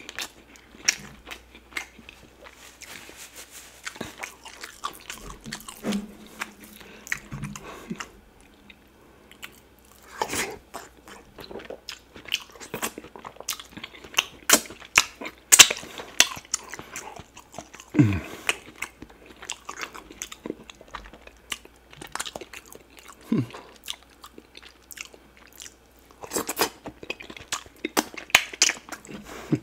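Close-miked wet chewing, lip smacks and finger-sucking of a person eating meat and tripe from cocoyam soup by hand, with sharp irregular mouth clicks and smacks.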